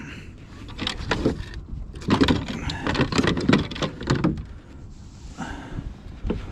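Knocks and rattles of gear being handled in a fishing kayak, bunched between about one and four seconds in, over a low wind rumble on the microphone.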